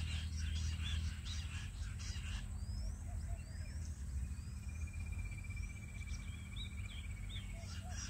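Birds calling: a dense rapid chirping that stops about two and a half seconds in, then four separate rising whistles, then a fast trill near the end, over a steady low hum.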